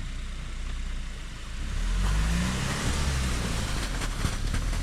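Off-road SUV engine revving up about two seconds in, pitch rising, with a rising hiss, as the vehicle tries to drive out of a deep snow rut.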